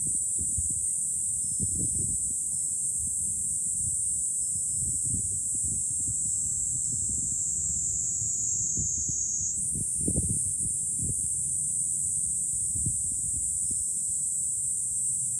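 Cicadas shrilling in a steady high chorus, one song sliding lower in pitch and then snapping back up about ten seconds in. Wind buffets the microphone in gusts underneath.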